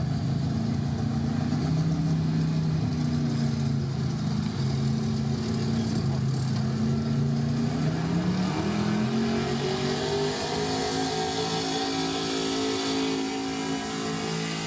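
Gasoline pickup truck engine running at high revs, as in a street gas class truck pull. Its pitch holds, dips about halfway through, then climbs again and holds.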